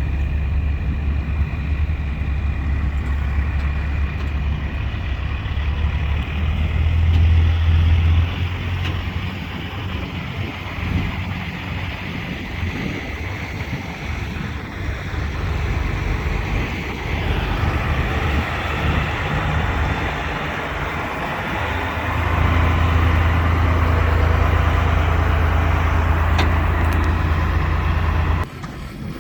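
Truck engine running with a deep rumble, swelling louder around seven seconds in and again for the last several seconds, then cutting off abruptly near the end.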